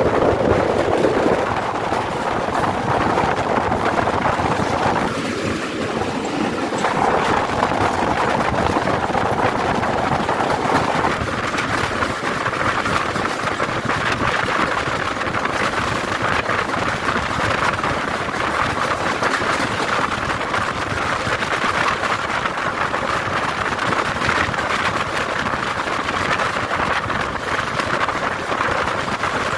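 Passenger train in motion: a steady rumble and rushing noise of the wheels running on the rails.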